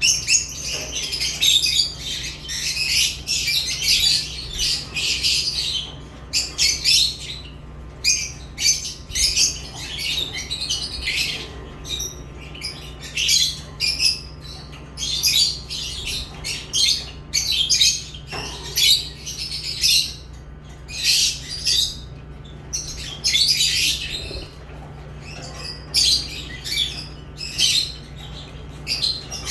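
Lovebirds chirping and squawking in rapid, shrill bursts, one call after another, over a steady low hum.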